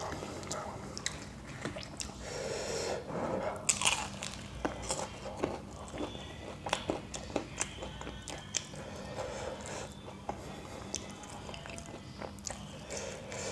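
Close-up chewing of a fried samosa: wet mouth sounds with many short, crisp crunches of the pastry scattered through.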